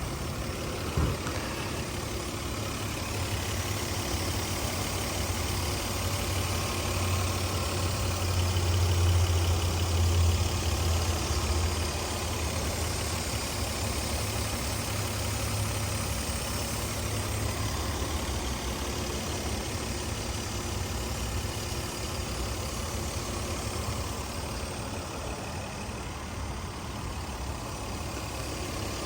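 2004 Lexus GS300's 3.0-litre straight-six (2JZ-GE) idling steadily, its low hum swelling a little for a few seconds about a third of the way in. A single click about a second in.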